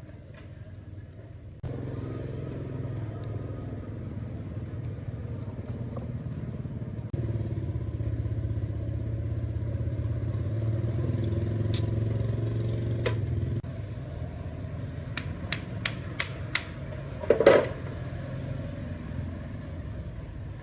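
A motor running with a steady low hum that starts about two seconds in, gets louder about a third of the way through and drops back a little past halfway. Near the end come a quick run of sharp clicks and one loud knock.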